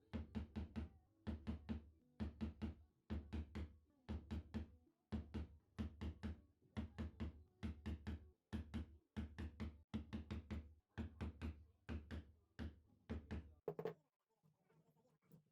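A flat wood chisel being struck, cutting a door-hinge recess: short runs of three or four quick knocks, about one run a second. The strikes stop about a second before the end.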